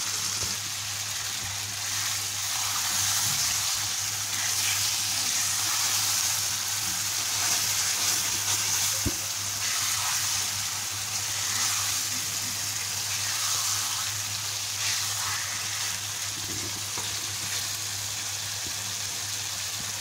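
Freshly added raw chicken pieces sizzling in hot oil and spice paste in a pan, with a spatula stirring and scraping through them as the meat browns in the masala. A steady frying hiss, with one sharper knock about nine seconds in.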